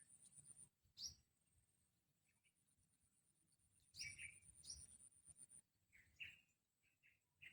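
Faint, short bird chirps in small clusters: about a second in, around four to five seconds in, and again near the end. A thin, high, steady whine comes and goes behind them.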